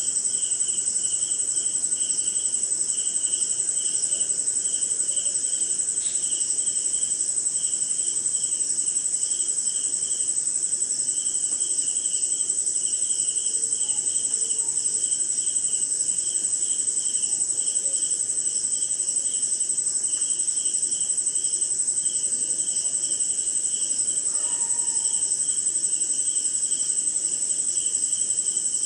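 Night chorus of crickets and other insects: one continuous high-pitched trill, with a lower chirping that pulses in a steady rhythm over it.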